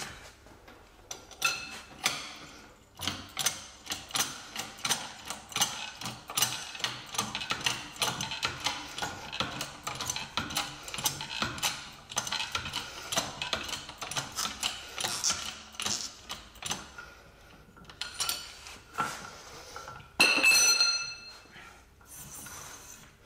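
Ratchet wrench clicking in quick repeated strokes as a press-and-pull sleeve tool is wound in to push a bushing out of a suspension arm. Near the end comes a louder ringing metallic clink.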